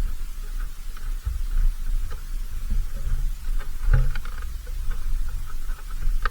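Wildlife at a backyard bird feeder: many short chirps and clicks, with a sharper click about four seconds in, over a steady low rumble.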